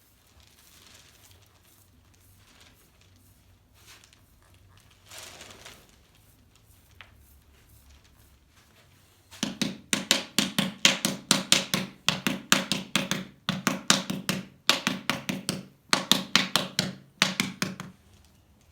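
Paddle slapping clay in paddle-and-anvil pottery: quick runs of sharp strikes, several a second with short pauses between runs, starting about halfway through and stopping shortly before the end.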